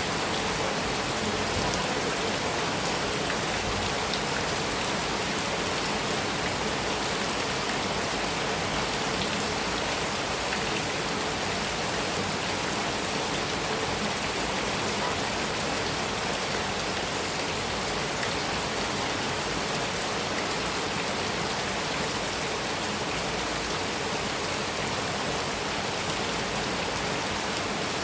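Heavy rain falling steadily on a metal roof, an even, unbroken wash of drops with no thunder.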